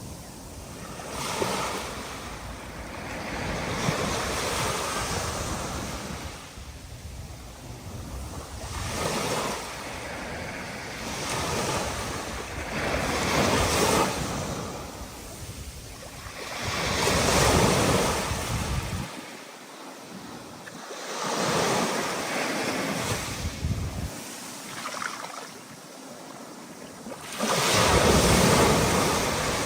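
Rough ocean surf with wind: waves breaking in swells that rise and fall every few seconds.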